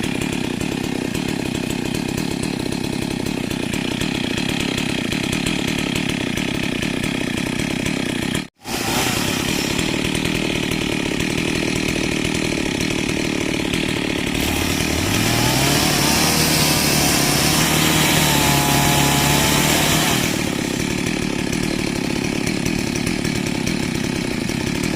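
Chainsaw running steadily; a little over halfway through the engine revs up, its pitch rising and held high for about six seconds before falling back. The sound cuts out for an instant about a third in.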